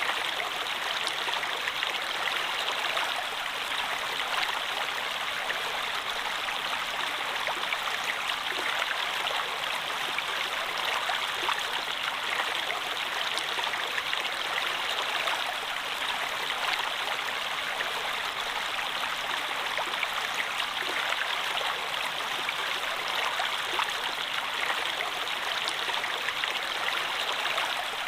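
A stream of flowing water running steadily, with small splashes and trickles all through.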